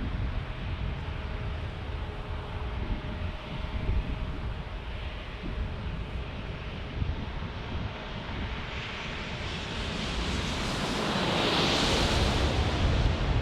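Jet airliner passing low on its landing approach: a steady rumble that swells in the last few seconds into a loud jet roar at its closest, with wind buffeting the microphone.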